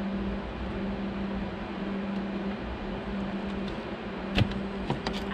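Steady low mechanical hum throughout. A sharp click about four and a half seconds in and a couple more near the end, like a door latch and handle being worked.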